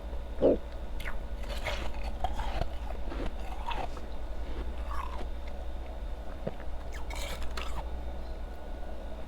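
Ice being bitten and chewed close to the microphone: irregular crunches, with the loudest bite about half a second in, over a steady low hum.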